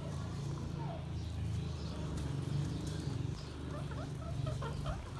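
Indian ringneck parrot giving a few soft, short chirps and squeaks, about a second in and again near the end, over a steady low hum.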